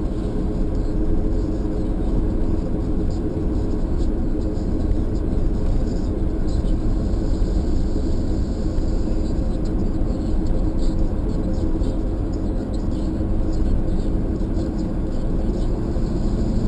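Steady engine and road noise from inside a moving car's cabin, an even low rumble that holds level throughout.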